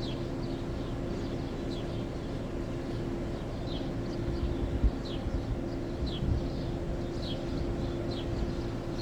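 A bird calling over and over with short, high, falling chirps about once a second, over a steady low mechanical hum with two constant tones. The hum is like a running engine or machinery. There are a few low rumbling bumps near the middle.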